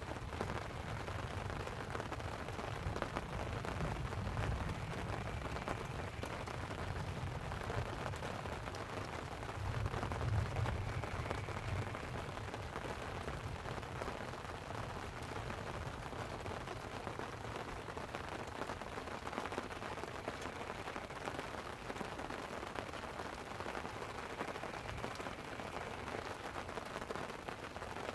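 Light rain pattering on a tent, with rolling thunder rumbling low through the first half and loudest about ten seconds in.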